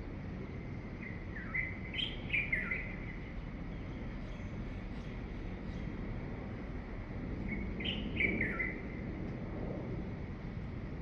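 A songbird singing two similar short phrases of quick falling chirped notes, about six seconds apart, over a steady low background noise.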